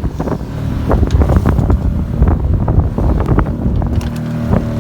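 Wind buffeting the microphone aboard a boat, with water noise. A steady low hum comes in about four seconds in.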